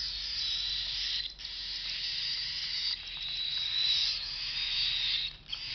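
Cockatiel chick giving its raspy, hissing food-begging call while being syringe-fed, in long stretches broken by brief pauses.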